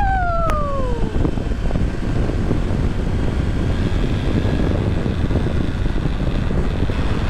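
Wind rushing over the microphone and a Honda Super Cub's single-cylinder four-stroke engine running while riding. It opens with a short falling hummed note from the rider, lasting about a second.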